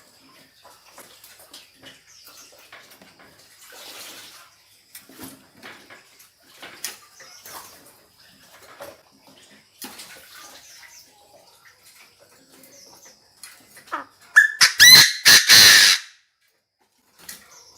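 Chinese francolin calling: one loud run of several quick notes lasting under two seconds, near the end. Before it there are only faint scattered clicks and rustles, over a faint steady high tone.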